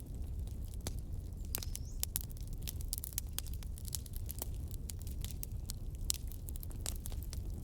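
Wood fire in a fireplace crackling: many irregular sharp snaps and pops over a steady low rumble.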